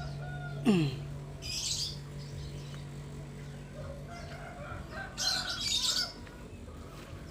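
Small nectar-feeding bird making two short, scratchy high-pitched bursts of sound, about a second and a half in and again near five seconds, with a sharp click just before the first; a steady low hum runs underneath.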